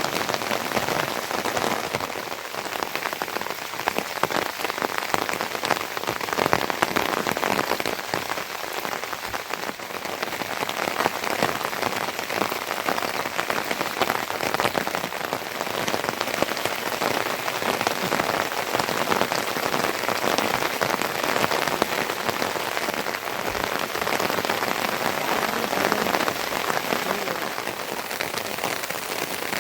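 Steady, fairly loud rain falling, a dense patter of many drops striking a surface.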